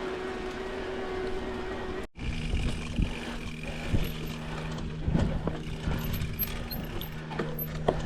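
Mountain bike riding over a dirt trail: steady tyre and drivetrain rolling noise with a low hum and scattered knocks. The sound drops out for a moment about two seconds in.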